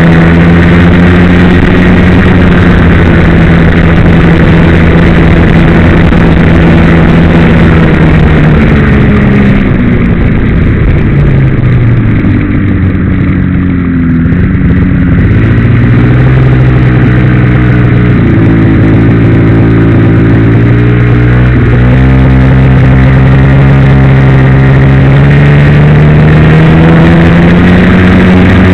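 Ski-Doo MX Blizzard snowmobile's two-stroke engine running loudly and steadily. About a third of the way in its pitch drops, wavers for several seconds, then slowly climbs back up toward the end.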